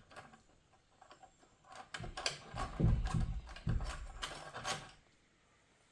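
Steel and friction clutch plates from an automatic transmission's clutch pack being worked out of their drum by hand: a string of metallic clicks and clacks with a few dull knocks in the middle. It stops about a second before the end.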